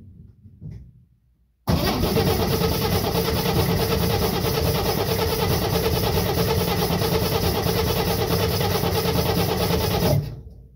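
1964 Chevrolet Corvair's air-cooled flat-six turned over by its starter for about eight seconds, cranking steadily without firing because the ignition coil is disconnected, to prime and test a new fuel pump. It stops suddenly.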